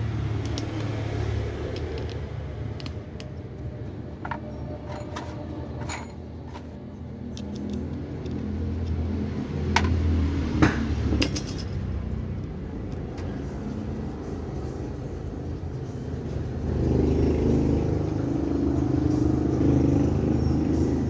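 Steady low engine rumble, like a vehicle running close by, growing louder near the end, with a few sharp metallic clinks of parts being handled.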